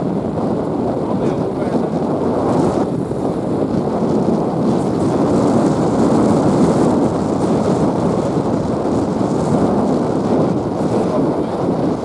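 Steady wind rushing over the microphone of a rider on a moving motorbike, with road and engine noise underneath.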